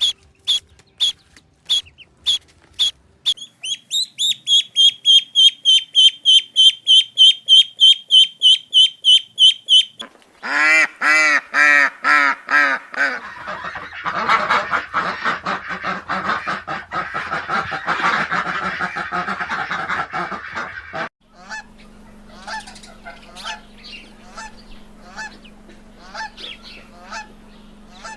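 A sequence of bird calls: spaced sharp high calls, then a fast run of high calls about five a second, then loud honking calls that merge into a dense flock chorus, ending about two thirds through with scattered calls over a low steady hum.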